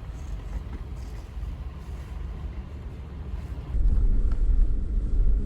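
Steady low rumble of a Jeep's engine and tyres heard from inside the cabin while driving; it becomes suddenly louder and deeper about two thirds of the way through.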